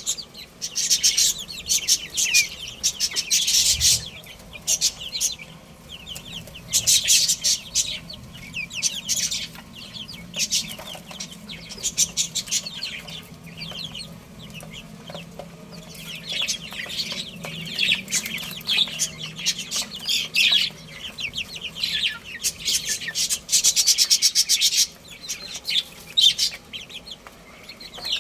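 A group of baby chicks cheeping, with rapid high-pitched peeps coming in dense bursts every second or two.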